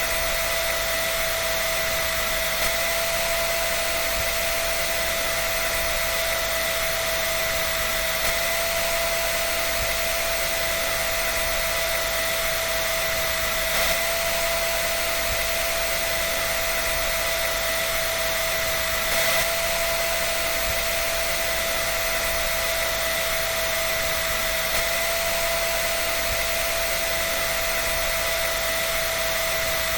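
Hair dryer running steadily: an even airy hiss with a constant whine from the motor and fan.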